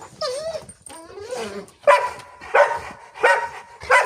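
Dogs whining and yipping with rising and falling pitch, then four loud barks a little over half a second apart in the second half.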